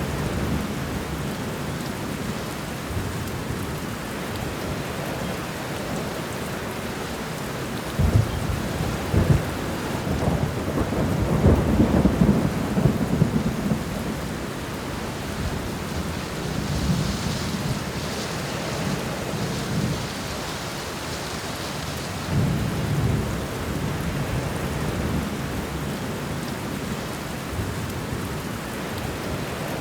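Steady rain with low rumbles of thunder: a long rolling rumble starting about eight seconds in, then weaker rumbles later.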